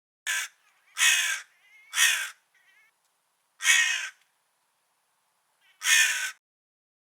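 Crow cawing: five harsh caws at uneven gaps, with a couple of faint, shorter calls between them.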